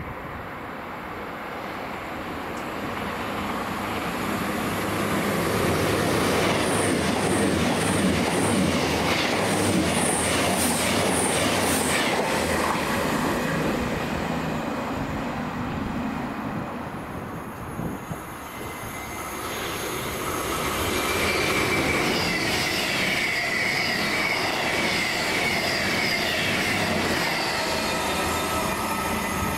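A train passes through the station. Its rumble builds, with runs of rapid high clicks from the wheels on the rails, then fades. After a cut, a second train comes on loud with a steady high whine: a pair of Class 221 Super Voyager diesel-electric units.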